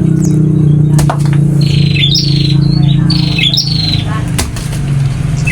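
Small finch-like birds (burung pipit) giving repeated harsh, buzzy calls, each about half a second long with a rising flick at the end, coming roughly a second apart. A loud steady low hum runs underneath.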